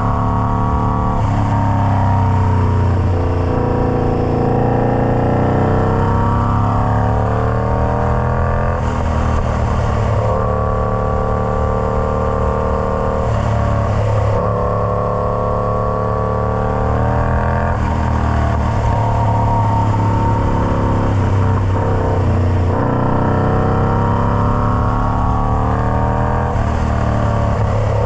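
Indian Scout Bobber V-twin running through a Freedom Performance Combat 2-into-1 exhaust under changing throttle. The exhaust note climbs slowly for several seconds and then drops back, five or so times.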